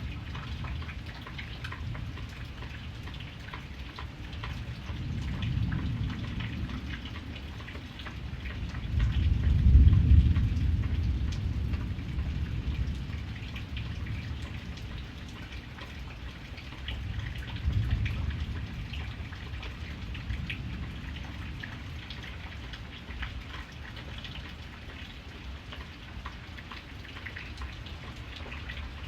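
Steady rain with fine pattering drops, under low rolling rumbles of thunder: the loudest swells up about ten seconds in and fades slowly, with a smaller one a little later.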